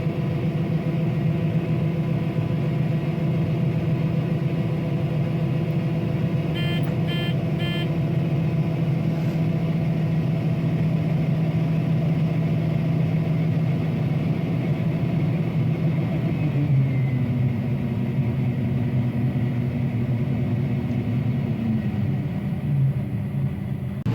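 A combine harvester runs steadily while shelling corn, heard as a continuous engine drone. Three short beeps come about seven seconds in. About two-thirds of the way through, the drone shifts in pitch.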